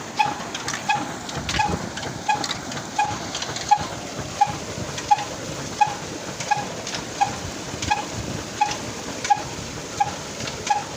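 Old Ruston Hornsby single-cylinder diesel engine running at a slow, steady speed: a sharp beat about every 0.7 seconds, with a lighter knock between each pair, over a steady hiss.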